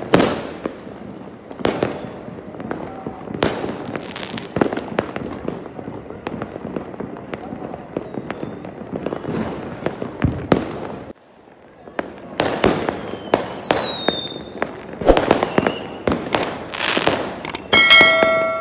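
Fireworks going off in a run of repeated bangs at varying distances, with a couple of falling whistles from shells in flight. A short steady pitched tone sounds near the end.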